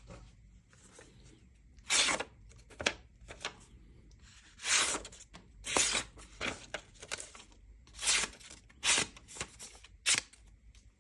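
Knife blade making a series of short cutting strokes, about a dozen brief scraping swishes with pauses between them.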